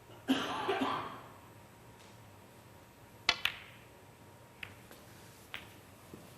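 A short cough, then a snooker shot: two sharp clicks a fraction of a second apart as the cue tip strikes the cue ball and the cue ball strikes the object ball. Two fainter clicks of balls touching follow.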